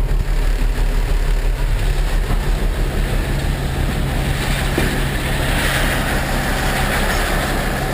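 A heavy engine idling steadily, with an even low hum. A hiss swells up for a second or two near the end.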